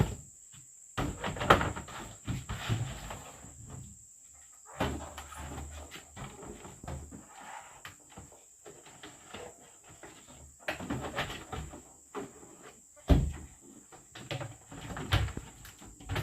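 Intermittent clusters of knocks and clatter, as of objects being handled and set down, over a steady high insect drone.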